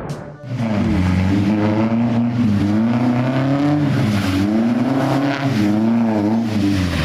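A car engine revving, its pitch rising and falling again and again.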